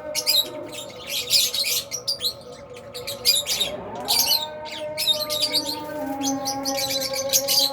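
A flock of albino and Fisher's lovebirds chirping, with rapid, overlapping high-pitched chirps and twitters all the way through. Some steady lower tones hold underneath.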